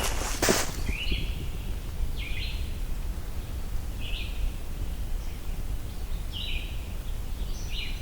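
A songbird singing short, high phrases, one about every two seconds, over steady low background rumble. A single footstep thumps about half a second in.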